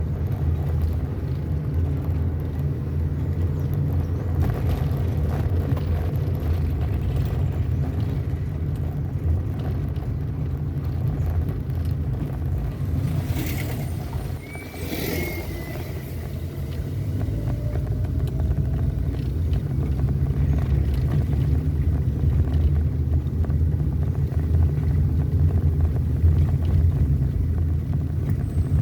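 Vehicle driving along at steady speed: a continuous low engine and road rumble, easing briefly about halfway through, then picking up again.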